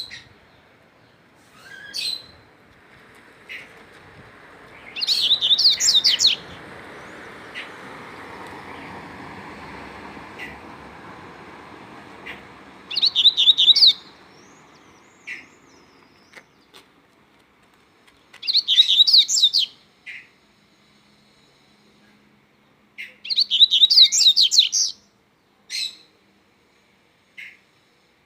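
Coleiro (double-collared seedeater) singing in its wild-type 'mateiro' style: four loud, quick twittering song phrases, each about a second long, spaced several seconds apart, with short single chips between. A faint background rush swells and fades in the first half.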